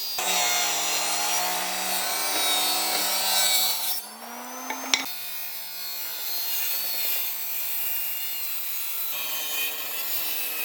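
Electric power tool cutting hardwood: the motor's hum drops in pitch as it takes the cut, with a harsh hiss of wood being cut. About four seconds in, the hiss eases and the motor speeds back up, with a sharp click. A lighter cut then runs on.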